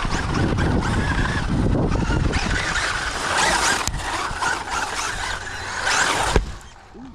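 Traxxas UDR RC trophy truck driving hard over dirt: its brushless electric motor whines and its tyres scrabble and throw dirt. There is a sharp knock about six and a half seconds in, after which the sound quickly drops away.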